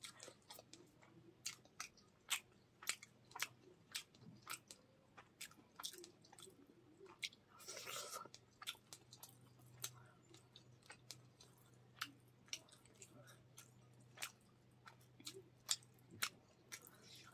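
A person chewing and biting fried katla fish with rice, with many short wet mouth clicks and smacks at an uneven pace. About eight seconds in there is a longer noisy sound lasting about a second.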